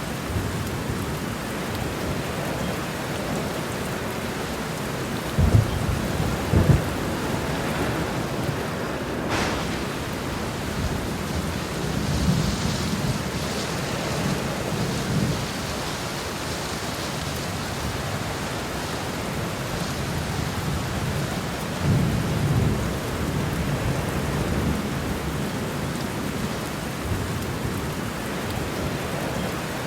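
Heavy rain falling steadily through a thunderstorm. Two sharp thunderclaps come about five and a half and nearly seven seconds in, and rolling thunder rumbles low around twelve to fifteen seconds and again a little after twenty-two seconds.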